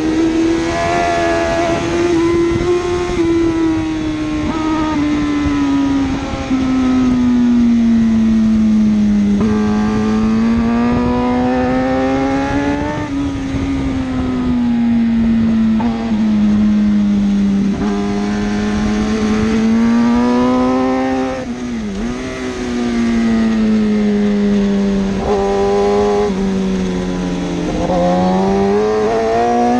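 1000cc superbike engine running hard, its pitch climbing under acceleration and dropping off again in repeated sweeps, with one sharp drop and recovery a little past the two-thirds mark.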